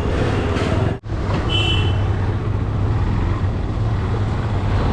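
Street traffic and a steady engine hum, with a sudden brief dropout about a second in and a short high-pitched tone just after.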